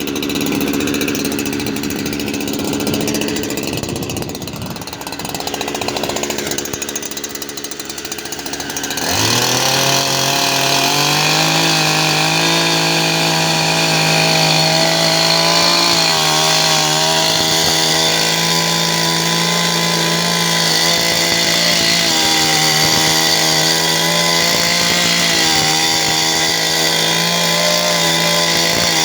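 Chainsaw idling with a rough, rapid firing, then revved up about nine seconds in and held at a steady high speed while cutting through parota wood.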